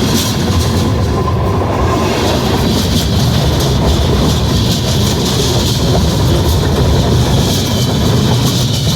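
CSX freight train rolling past close to the track, a loud steady rumble of steel wheels on the rails with a constant run of fine clicks.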